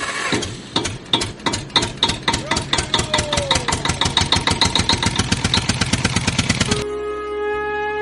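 Tractor engine starting and chugging, its knocks speeding up from about two to about six a second, then cutting off abruptly near the end.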